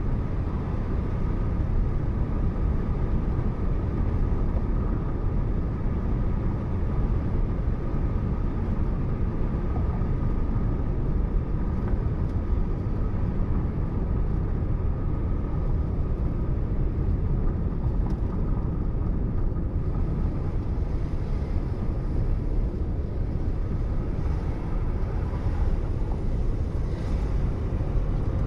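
Steady low rumble of a car driving along a road: engine and tyre noise picked up by a dashcam.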